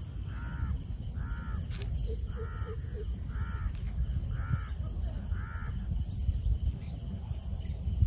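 A bird calling over and over: seven calls about a second apart, stopping a little past halfway.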